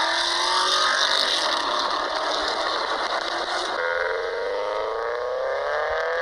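BMW E34 engine and exhaust under hard acceleration, the pitch rising, then dropping sharply about two-thirds of the way through, as at an upshift, and climbing again.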